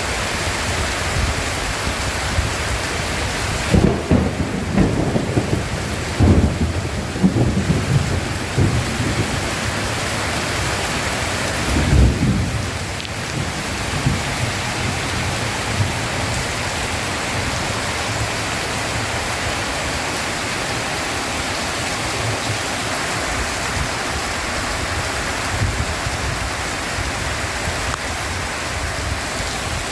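Heavy rain falling steadily in a thunderstorm. About four seconds in, a roll of thunder rumbles and crackles for several seconds, and another short clap of thunder comes about twelve seconds in.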